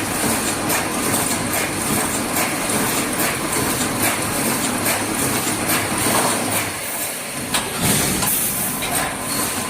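Automatic wire mesh welding machine running: a loud, steady mechanical din with repeated sharp clacks from its working strokes.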